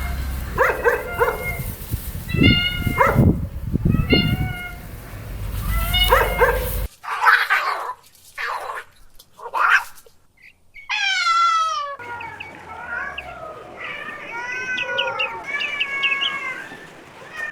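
Kittens mewing: a string of short, high-pitched mews, with the background changing abruptly twice as one recording cuts to the next. About 11 s in comes one longer mew that falls in pitch.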